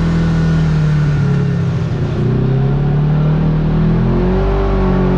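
Kawasaki KRX side-by-side's parallel-twin engine running under way, its note dropping about two seconds in and climbing again as it picks up speed near the end.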